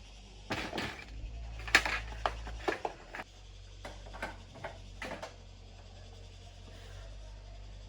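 A quick series of light clicks and knocks from small hard objects being handled, over a steady low hum; the clicks die away after about five seconds.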